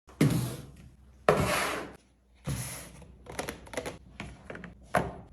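Containers and food items being handled and set down while organising a fridge: three louder knocks and rustles in the first half, then a run of lighter clicks and taps.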